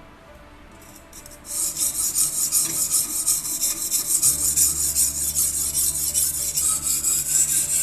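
Soaked 220-grit silicon carbide whetstone on a guided sharpening system, stroked rapidly back and forth along a thin steel knife blade: a steady scraping rasp that starts about a second and a half in.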